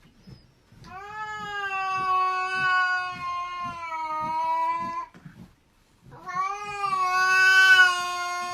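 A cat yowling: two long, drawn-out calls held at a steady pitch, the first starting about a second in and lasting some four seconds, the second starting about six seconds in.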